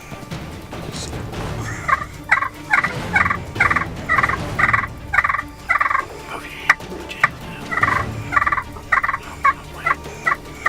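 Turkey calling: two runs of quick, evenly spaced notes, about two to three a second, with a short break between them and a few sharp clicks.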